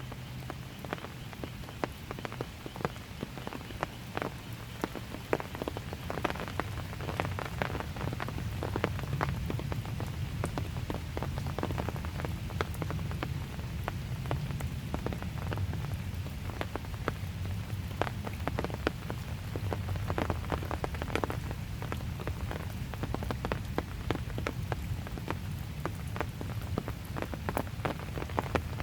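Steady gentle rain, with many irregular sharp taps of drops striking nearby surfaces over a low, steady rumble. It grows a little heavier after about six seconds.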